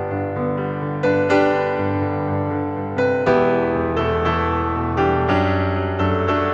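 Background music: a gentle piano melody with soft chords, notes struck and left to ring and fade.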